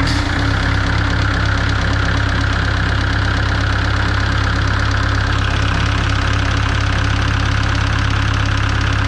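Mitsubishi MM55SR mini excavator's diesel engine idling steadily while it warms up after starting, with an even, rapid pulsing beat.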